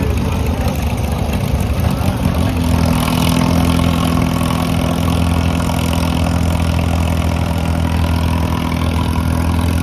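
Cockshutt 30 tractor engine running loud and steady, settling to a constant pitch about two and a half seconds in.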